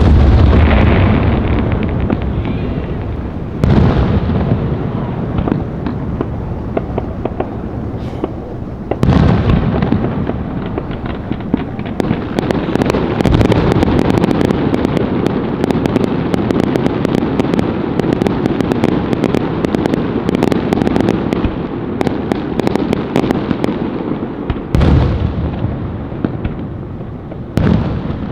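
Fireworks going off: deep booms, one right at the start, others about four and nine seconds in and two near the end, with a long stretch of dense crackling in between.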